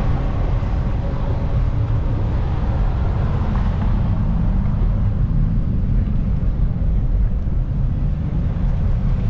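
Wind buffeting the microphone of a moving bicycle rider: a steady, loud low rumble.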